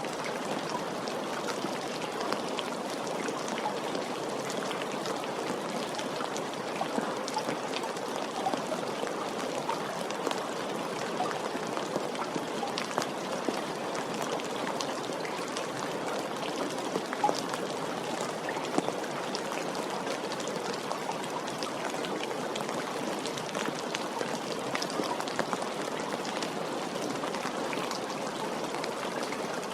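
Steady rain falling, an even hiss dotted with many sharp ticks of individual drops hitting a surface.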